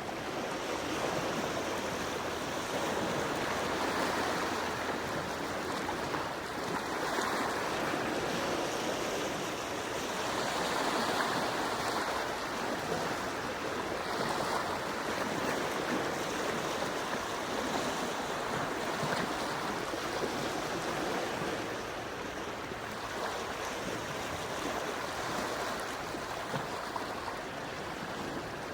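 Gentle sea waves washing onto the shore, a steady wash that swells and eases every few seconds.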